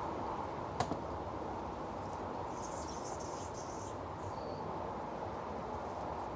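A small bird chirping in a quick, high run of notes about two seconds in, with another short high note a moment later, over a steady rushing background; a single sharp click sounds near the start.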